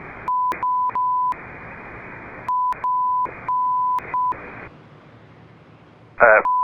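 A steady beep tone switching on and off in short pieces, a censor bleep masking a phone number read out over air traffic control radio, with radio hiss in the gaps. The hiss drops lower after about two-thirds of the way through, and a short loud burst comes just before the end.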